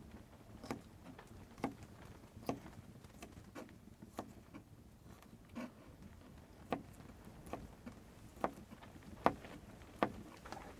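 A series of short, sharp knocks or crunches, roughly one a second, over a faint low steady rumble.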